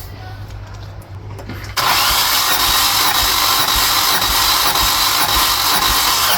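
Starter motor cranking a Nissan 1.8 L QG18DE four-cylinder engine for a compression test. A steady whine starts suddenly about two seconds in and keeps going.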